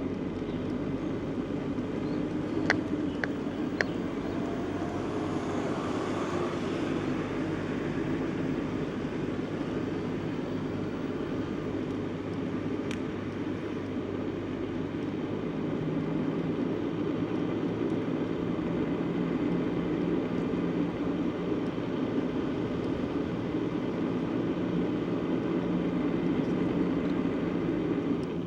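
Steady rolling noise of a bicycle ride on a village road: tyre and wind rumble with a low, even hum. A few light clicks come about three seconds in, and one more near the middle.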